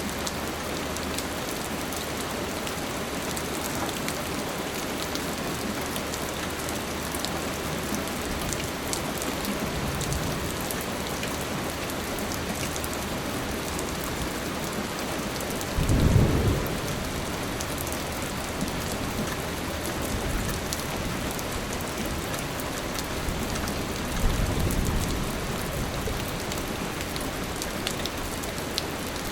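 Steady rain falling on a surface, with low rumbles of thunder: a faint one about a third of the way in, the loudest one a little past halfway, and another softer one later on.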